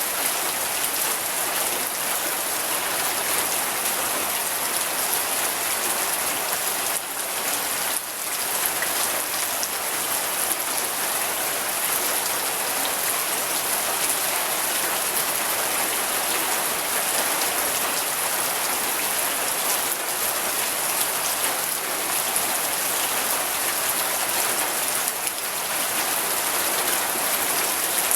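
Steady rain falling on a surface: a dense, even hiss of many drops with no thunder.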